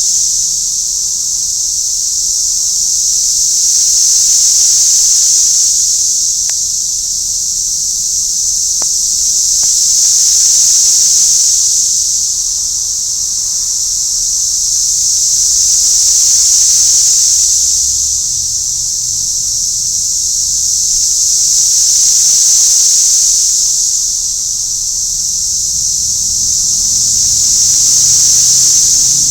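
Loud chorus of Brood X periodical cicadas: a dense, high-pitched hiss that swells and fades in slow waves about every six seconds.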